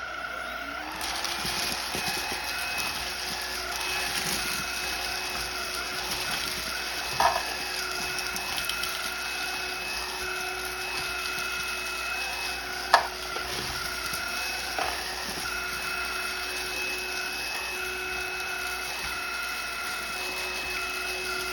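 Cordless stick vacuum cleaner switching on and running steadily with a high whine, its motor spinning up over the first second or two. A few sharp clicks come as cereal pieces are sucked up, the loudest about 13 seconds in.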